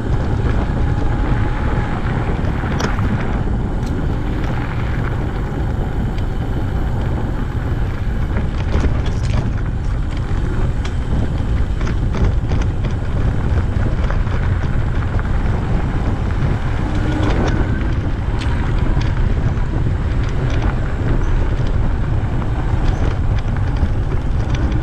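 Steady wind rumble on the microphone of a camera riding along on a moving bicycle, with a few faint clicks and rattles.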